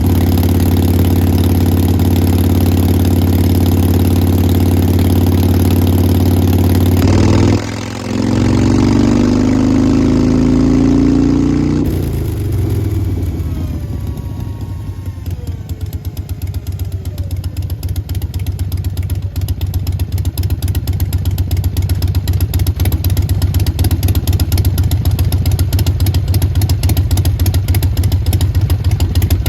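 Harley-Davidson Sportster Forty-Eight's 1200 cc air-cooled V-twin running through a Vance & Hines Big Radius exhaust. After a brief dip about eight seconds in, the engine speed falls over a few seconds and settles into a slower idle with distinct separate beats, the loping 'three-beat' (sanbyoshi) Harley idle.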